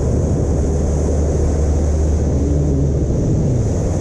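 Motorboat under way: the engine's steady low drone with wind and water rushing past. The engine note shifts slightly near the end.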